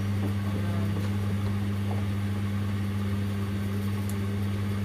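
Steady low hum of washing machines running mid-cycle on a 40 °C delicates wash.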